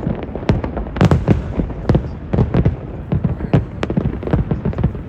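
Aerial fireworks shells bursting in quick succession, about two to three sharp bangs a second, over a continuous rumble of overlapping explosions.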